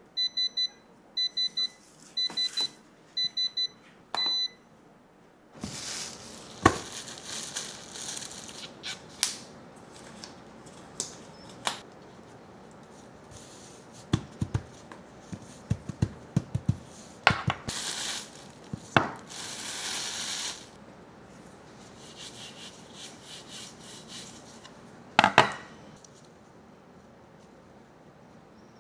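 A kitchen appliance's electronic beeper sounding short high beeps in quick groups for about four seconds, followed by kitchen handling noise: rustling with scattered clinks and knocks.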